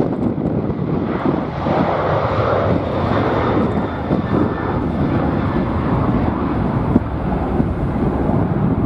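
Jet airliner engines running, with a faint high whine over a steady rush, mixed with heavy wind buffeting the microphone.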